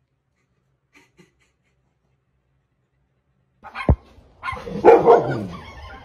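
Near silence for over three seconds, then a sharp thump and a dog barking loudly about four and a half to five and a half seconds in.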